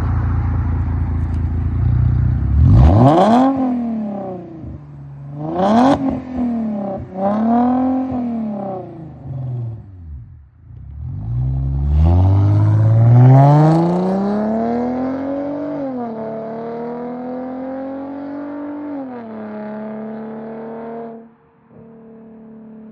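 V6 engine of a 2009 Mercedes R350 with a full custom exhaust, revved in several quick blips, then run up and held high for a few seconds before it sinks back toward idle. Near the end it drops suddenly to a quieter steady hum.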